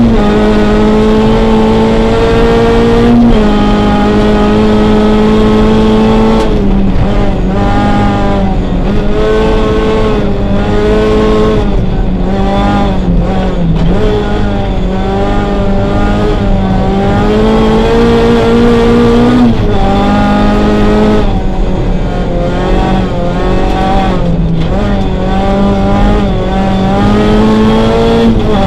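Rally car's engine running hard, heard from inside the cabin. Its pitch holds high, then drops in steps at gear changes and dips and rises repeatedly as the throttle is lifted and reapplied through corners.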